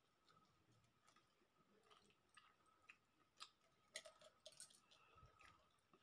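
Faint chewing with soft wet mouth clicks from a person eating rice and chicken curry by hand, a few clicks a little louder in the second half.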